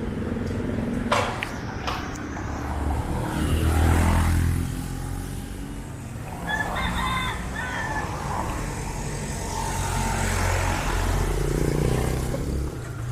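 Street traffic: engines rumbling as vehicles pass, swelling twice as they go by. A short high-pitched call about a second long comes some six and a half seconds in.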